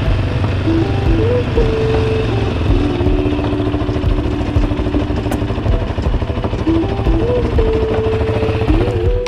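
Steady vehicle rumble, as of a car on the move, with a few held melodic notes sounding over it.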